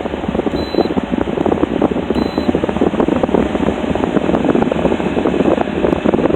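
Arctic King window air conditioner running, its fan blowing air with a steady rushing noise.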